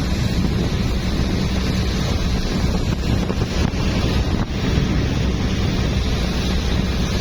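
Boat motor running steadily under way, with heavy wind buffeting the microphone.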